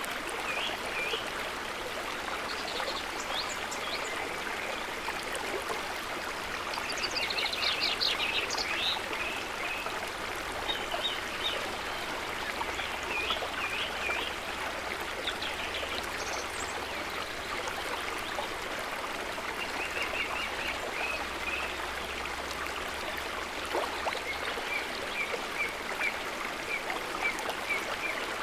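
A river's water running steadily, with small birds calling in short, quick series of chirps that come and go over it.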